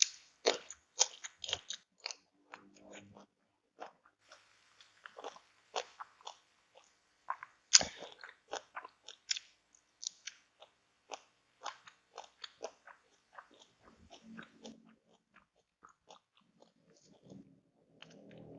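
A person biting and chewing crunchy food close to the microphone: a meal of ayam geprek (crispy smashed fried chicken) with raw vegetables, in irregular quick crunches and wet mouth clicks, the loudest crunch about eight seconds in.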